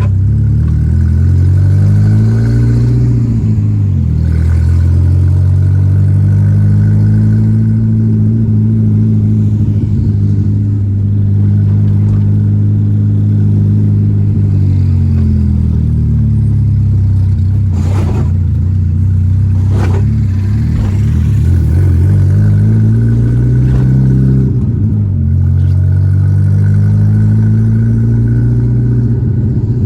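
Volkswagen Gol G4 Rallye's engine under way, its note climbing as it revs and falling back at gear changes, with steady cruising stretches in between. Two short sharp knocks come a couple of seconds apart past the middle.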